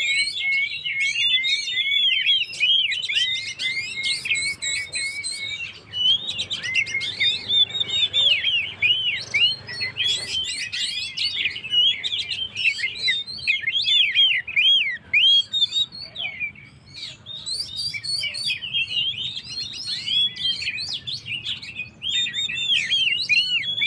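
Oriental magpie-robin (kacer) singing non-stop in full voice: a fast, varied stream of high whistles, chirps and slurred notes, with a short lull about two-thirds of the way through.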